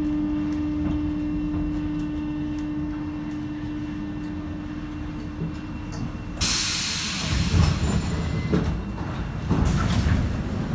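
Paris Métro line 7 train heard from on board: a steady low hum over a rumble, then about six seconds in a sudden loud hiss of air starts, followed by several knocks and thuds.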